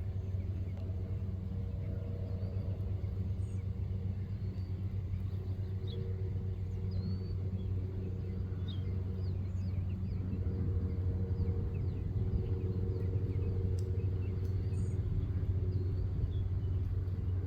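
A steady low engine rumble with a hum and overtones, like a vehicle running close by. Faint, short, high bird chirps are scattered over it.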